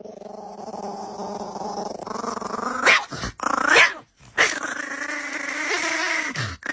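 A dog growling and vocalising in long drawn-out sounds that slide in pitch, with two short, louder cries about three and nearly four seconds in.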